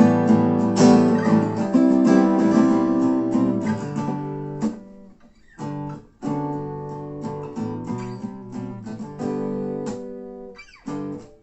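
Two acoustic guitars playing an instrumental passage after the last sung line: full strummed chords at first, thinning about five seconds in to lighter, separate notes and chords with short pauses.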